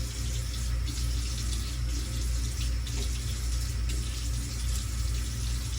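Water tap running steadily into a sink, with irregular splashes as hands scoop water to wet the face.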